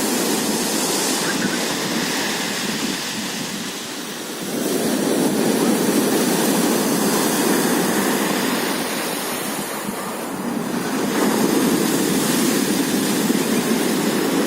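Black Sea surf washing onto the shore, the wash swelling up twice, about six seconds apart.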